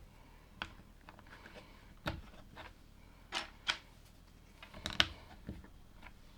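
Plastic LEGO pieces being handled and pressed together: a scattered series of sharp small clicks, the loudest about five seconds in.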